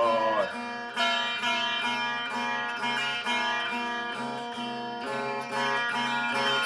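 Music played on a plucked string instrument with a sitar-like sound, a run of held, ringing notes.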